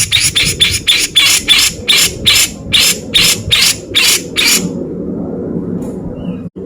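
Grey-cheeked bulbul (cucak jenggot) giving a fast series of harsh, rasping calls, about three a second, that stop a little over halfway through. A low steady hum runs underneath.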